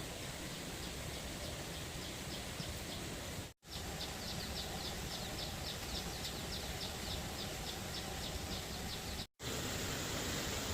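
Steady outdoor background hiss with a rapid series of short, high chirps from a small animal, about four a second. The sound cuts out abruptly for a moment twice.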